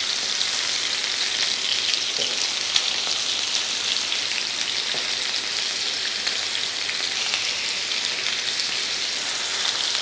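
Chicken kababs shallow-frying in sunflower oil in a nonstick pan: a steady sizzle with small crackles as they are turned over. One sharp click comes a little under three seconds in.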